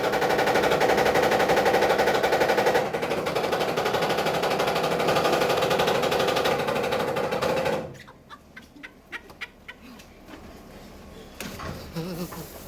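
Automatic car wash spinning brushes slapping against an open, doorless Jeep in a dense, rapid clatter. About eight seconds in it cuts off suddenly as the brushes tangle in a hanging seatbelt and the machine stops. A few light clicks follow.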